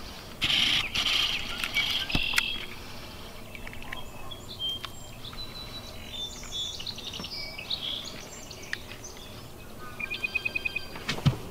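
Small birds chirping and calling with short high notes, and a fast trill about ten seconds in. A loud burst of rustling noise comes in the first two seconds.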